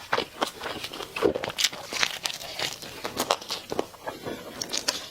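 Close-miked biting and chewing of crispy fried chicken: irregular crunches and crackles of the batter, several a second.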